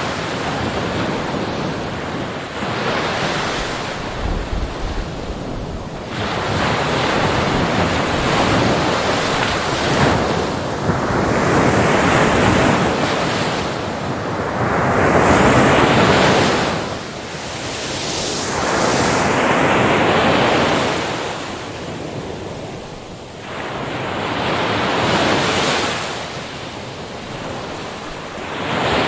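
Ocean waves breaking on a beach, surging and receding in swells every few seconds, with wind on the microphone.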